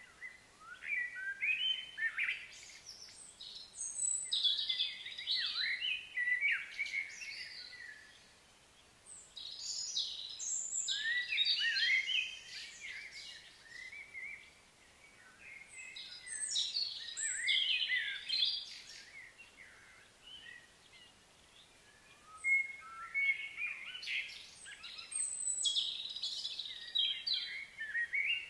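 Songbirds singing, a busy mix of short chirps and varied whistled phrases that come in four bouts of several seconds each, with quieter gaps in between.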